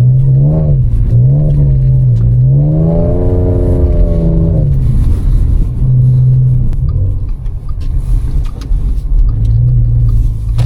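Audi S5's supercharged V6, on an 034 Motorsport Stage 1 tune with the resonator deleted, revving up and down several times in the first few seconds, then running at a steadier pitch.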